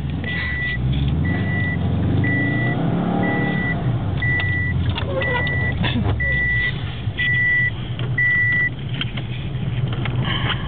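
Car engine running and briefly revving up and back down. Over it, nine short, evenly spaced electronic beeps sound about once a second, then stop.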